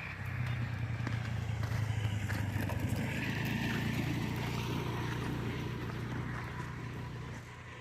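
A motor vehicle engine passing close by, coming in suddenly about a third of a second in, running steadily for several seconds, then dying away near the end.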